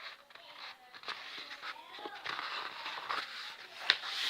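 A sheet of paper being handled and folded into a paper airplane: rustling and crinkling with scattered small clicks, and a sharper snap of paper near the end.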